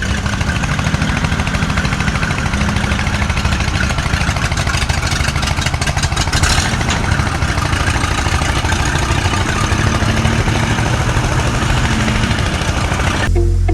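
Tractor diesel engine running steadily with a fast, even clatter. It cuts in suddenly and stops just before the end, where music takes over.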